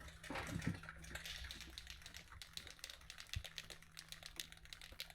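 Aerosol spray paint can being shaken, its mixing ball rattling in quick, faint clicks.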